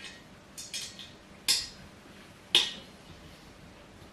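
Small metal parts clinking while a chair is being assembled: a few light clicks, then two louder clinks with a short ring.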